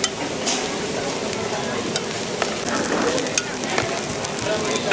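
Food sizzling as it fries, with sharp, irregular metal clicks of a utensil stirring it in the pan.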